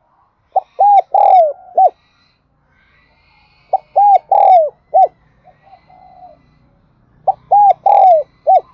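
Spotted dove cooing: three phrases of four or five short coos, a few seconds apart, each phrase with one longer note that falls in pitch.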